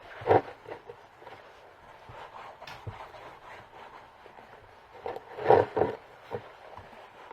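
Handling noises while leather balm is worked onto a boot: a sharp knock about a third of a second in, then a quick run of three or four knocks and scrapes about five and a half seconds in.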